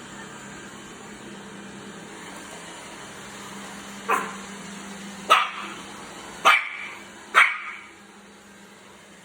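A dog barks four sharp times, about a second apart, in the second half, over the steady hum of a vacuum cleaner. The hum drops lower near the end.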